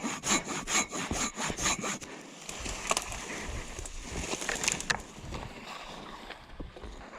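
Silky BigBoy handsaw cutting through wood in quick, even strokes, about four a second, stopping about two seconds in; quieter rustling and a few clicks follow.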